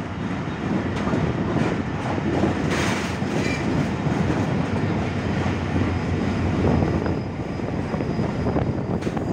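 Passenger train coach rolling along the track: a steady rumble of wheels on rails, with a few clacks as the wheels pass over rail joints.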